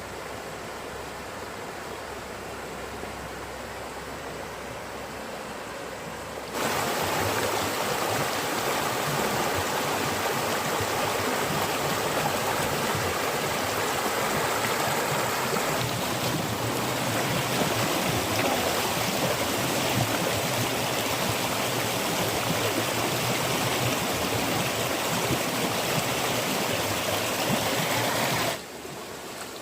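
Fast-flowing stream water rushing, a steady hiss that gets much louder about six seconds in and drops back near the end.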